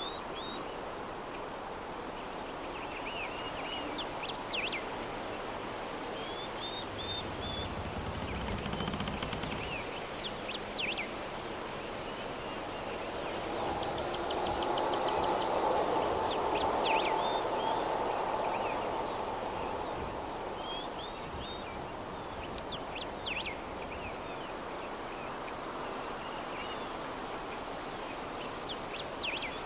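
Ambient soundscape of a steady soft breeze with birds chirping in short quick calls every few seconds. The background swells louder for a few seconds around the middle.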